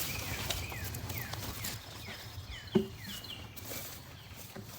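Birds calling in the background, a run of short chirps that each slide downward, repeated throughout. A single sharp thump sounds just under three seconds in.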